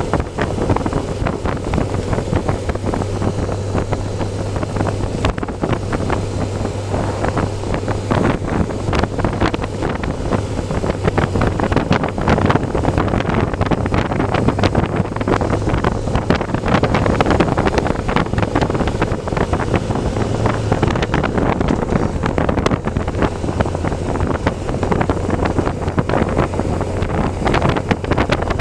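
Motorcycle engine running steadily at cruising speed, with heavy wind rushing over the microphone.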